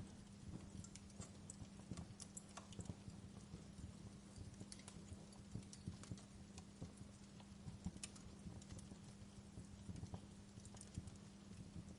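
Wood fire crackling in a fireplace: irregular sharp pops and snaps over a low rumble, with a faint steady hum underneath.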